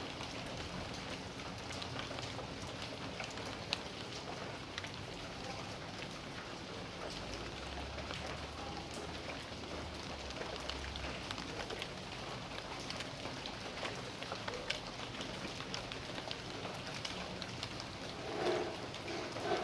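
Steady rain falling in a backyard, a constant hiss scattered with the ticks of single drops striking. A brief, louder sound rises out of it near the end.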